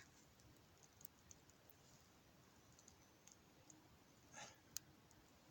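Near silence, broken by a few faint, scattered clicks; the clearest come about four and a half seconds in.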